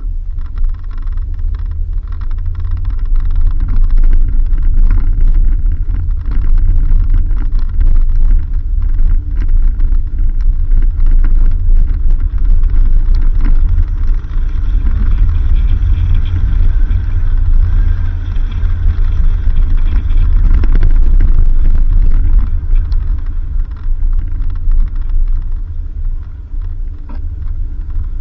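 Off-road vehicle driving along an unpaved dirt road: a loud, steady low rumble of engine and road, with frequent knocks and rattles from the rough surface. It grows somewhat louder through the middle stretch.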